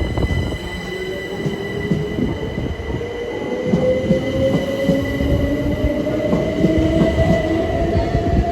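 Class 377 Electrostar electric multiple unit pulling away, its traction motors whining steadily upward in pitch as it accelerates over a rumble of wheels, with a steady high-pitched squeal above.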